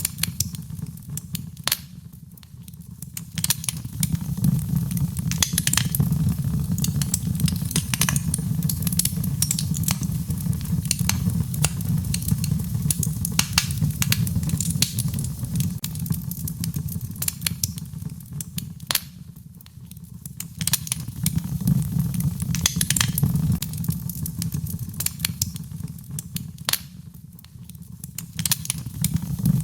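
Wood fire burning in a fireplace: a low rumble of flames that swells and dips every several seconds, with frequent sharp crackles and pops from the burning wood.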